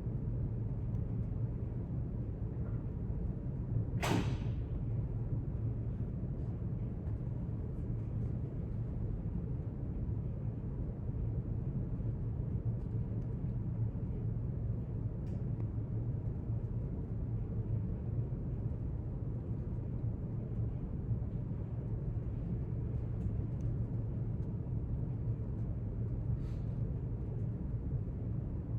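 Quiet library room tone: a steady low hum, with one sharp sound about four seconds in and a few faint ticks later.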